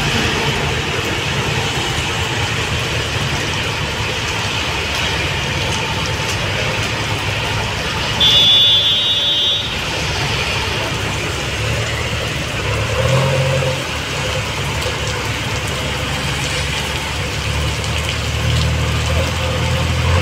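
Steady hiss of heavy rain falling on wet ground and parked vehicles, mixed with the low rumble of truck and heavy-vehicle engines. About eight seconds in, a loud high-pitched tone cuts through for a second and a half.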